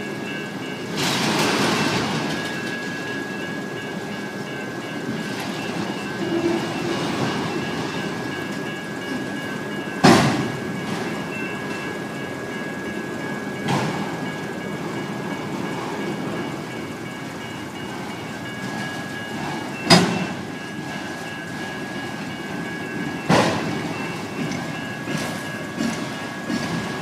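BNSF autorack freight cars rolling past over the crossing, with sharp metallic clanks every few seconds, loudest about ten and twenty seconds in. Electronic crossing bells ring steadily throughout.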